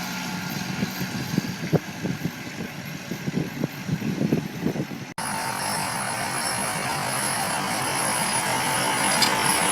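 Heavy farm machinery running. An engine with irregular clattering and knocking gives way, after an abrupt cut about five seconds in, to a steadier machine noise with a faint high whine.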